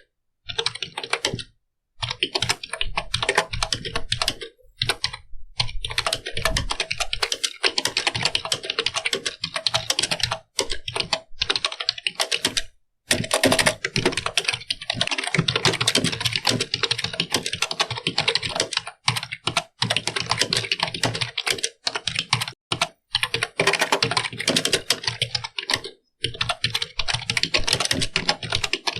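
Computer keyboard typed on quickly and continuously, a dense run of key clicks broken by short pauses every few seconds.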